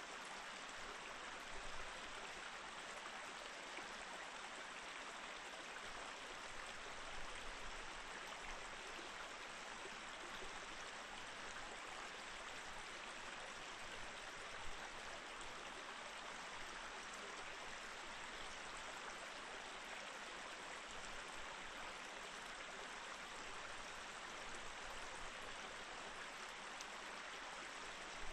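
Small mountain stream flowing and burbling over rocks among snow and ice, a steady rush of water with small splashes.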